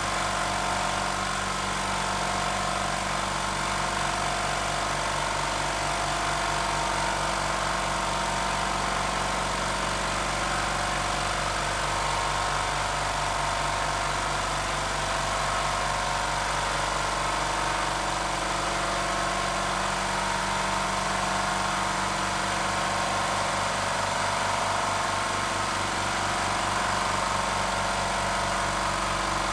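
Oil-free low-noise air compressor (HBM 6 PK, 150-litre tank) running steadily while it pumps up its tank, with a fine, fast pulsing from the pistons under a steady hum.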